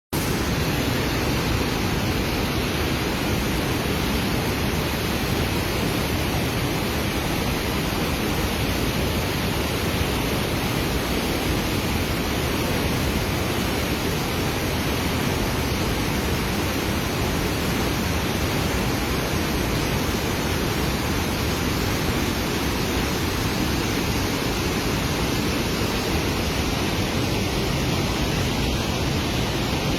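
Indus River floodwater rushing through the Jinnah Barrage in a steady, loud roar of moving water at a flood discharge of several lakh cusecs.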